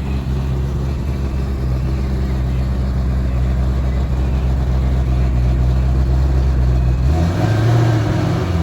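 V8 car engine running steadily at a low, even note; about seven seconds in the note changes and grows louder as the engine picks up revs.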